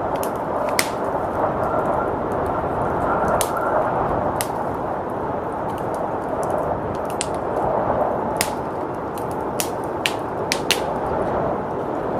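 Wood fire crackling, with a dozen or so sharp pops scattered irregularly through it, over a steady blizzard wind.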